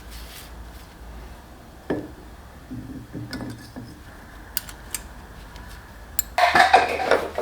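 Metal tools and a steel workpiece clinking and knocking as the part is handled and set back on a metal lathe. There are a few sharp clicks, then a louder run of metallic clatter near the end.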